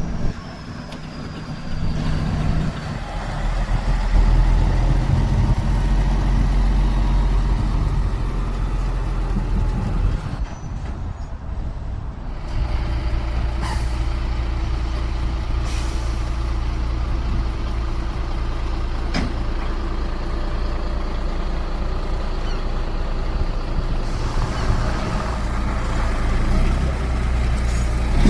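Heavy truck's diesel engine running with a deep, steady rumble. It drops away briefly about ten seconds in, then carries on steadier, with a few short sharp clicks over it.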